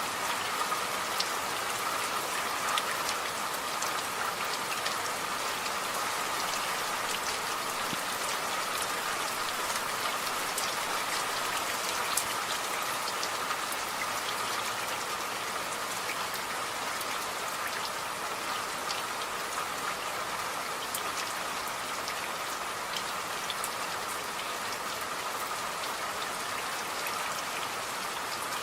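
Steady rain, an even hiss with many separate drops ticking on a surface.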